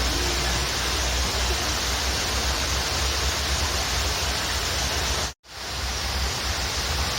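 Waterfall rushing in a steady, dense roar of falling water. About five seconds in the sound cuts out completely for a split second, then comes back over about half a second.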